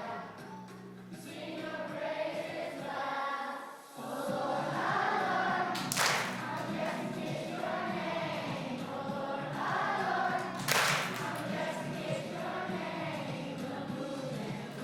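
A group of voices singing a song together over backing music, with a brief break about four seconds in and two sharp hits about six and eleven seconds in.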